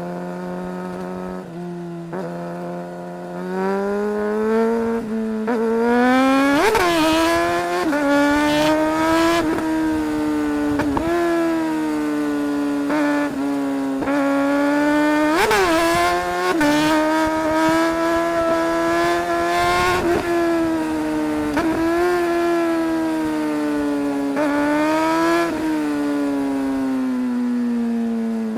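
2008 Suzuki GSR 600's inline-four engine running low and steady for a few seconds, then pulling away. The revs climb and drop again and again as the throttle is worked and gears change, with two sharp rev spikes, about a quarter and about halfway through.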